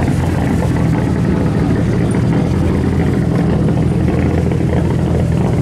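Subaru Impreza rally car's turbocharged flat-four engine idling steadily.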